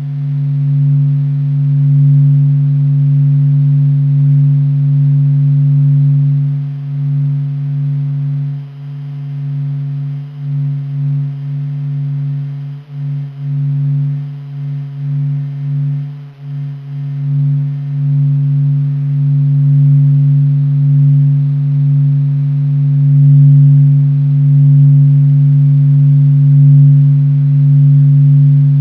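Low, steady droning hum from NASA's sonification of the sun's vibrations: one deep tone with a fainter one an octave above. It swells and dips in loudness, fluttering unevenly through the middle.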